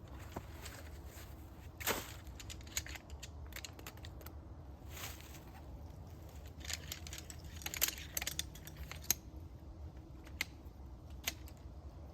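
Scattered light clicks and knocks at irregular intervals over a low steady hum, with the sharpest ones about two seconds in and around eight to nine seconds in.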